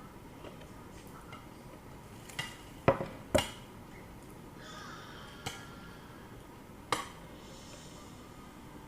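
Eating utensils knocking and clinking against a plate: a handful of sharp clicks, the loudest pair about three seconds in, with single fainter ones about five and a half and seven seconds in.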